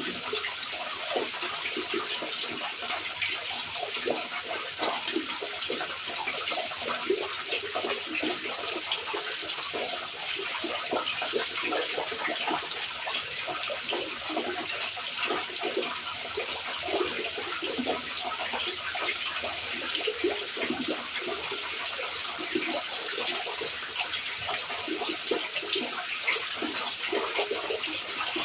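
Steady rain falling, dense with small drips and splashes.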